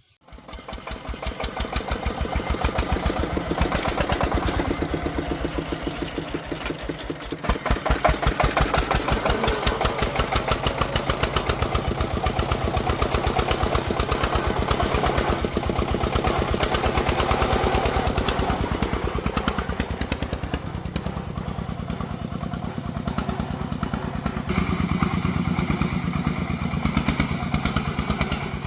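Engine of a small agricultural timber-hauling vehicle starting up and running with a rapid, even chugging, getting louder about eight seconds in.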